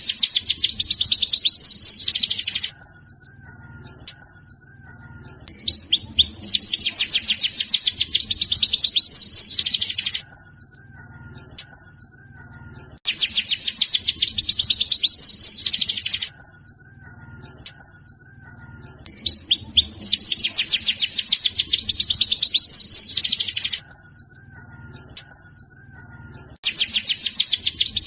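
Pleci (white-eye) song: fast, high rattling trills alternating with strings of short, clear high notes, the phrase repeating every few seconds.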